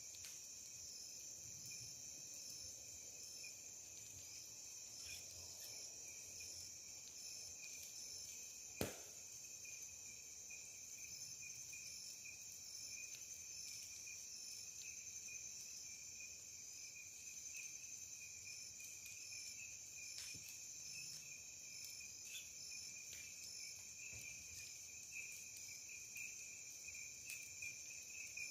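A chorus of night insects, a steady high-pitched trilling that never stops. A few faint clicks sound through it, with one sharp pop about nine seconds in.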